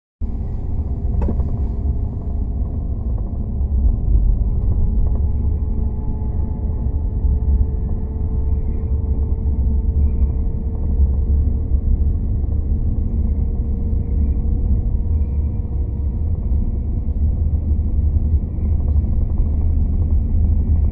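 CR400AF-AE Fuxing high-speed sleeper train running at speed, heard from inside: a steady low rumble with a faint tone that rises slowly. There is a single click about a second in.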